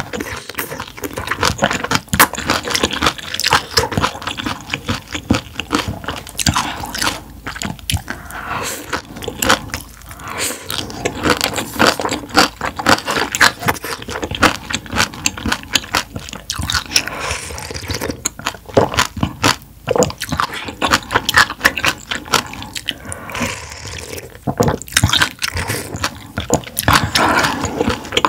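A person chewing and biting food close to the microphone, with a dense run of small mouth clicks and smacks throughout and occasional crunches.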